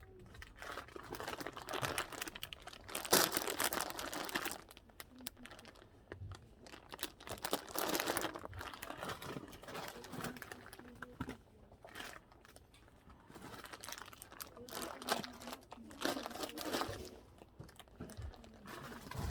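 Rustling and crinkling of material being handled close to the microphone, in irregular bursts of a second or two, the loudest a few seconds in and again near the middle.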